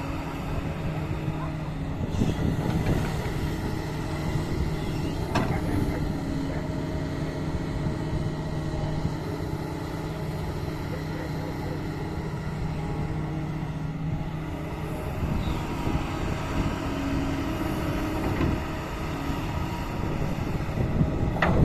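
Doosan DX225 excavator's diesel engine running steadily under work, swelling louder about two seconds in and again near the end. A single sharp knock comes about five seconds in.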